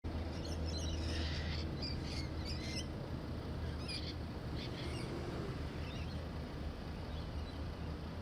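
Outdoor ambience: small birds chirping in quick short calls over the first five seconds or so, above a steady low hum and background noise.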